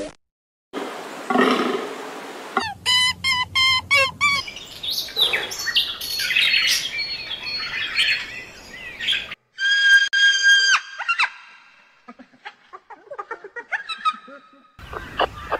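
A series of bird calls and chirps from several joined clips: a run of about five quick repeated chirps, then a jumble of mixed calls, a single held call about ten seconds in, and faint scattered chirps near the end.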